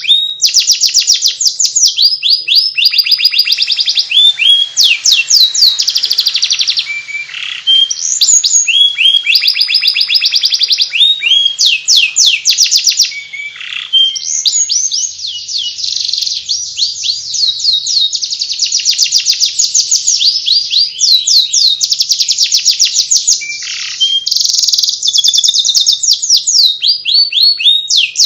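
Domestic canary singing a fast twittering warble (the "ngeriwik" song): rapid runs of repeated high chirps and trills, almost unbroken, with a couple of brief pauses.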